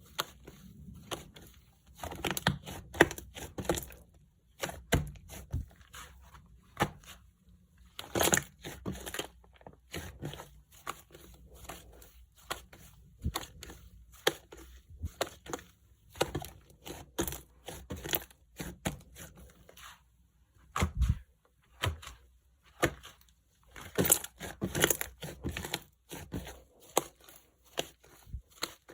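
Clay-mixed slime being squeezed, poked and stretched by hand, giving irregular runs of small sharp clicks and crackling pops with short pauses between them.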